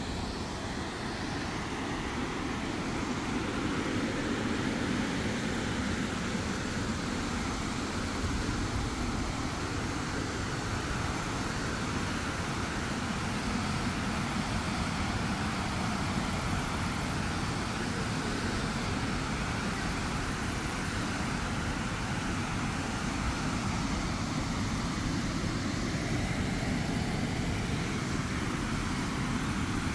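Steady roar of Tortum Waterfall's rushing water, growing a little louder over the first few seconds and then holding even.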